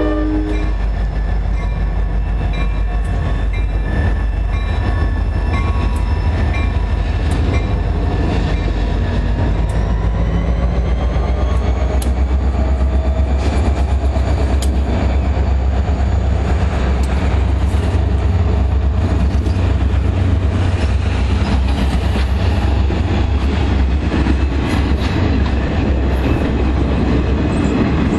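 Diesel locomotives and a string of railroad cars passing close by at low speed, with a heavy, steady low rumble. Wheels click over the rail joints as the passenger cars, boxcar and caboose roll by. The last of a horn blast cuts off just after the start.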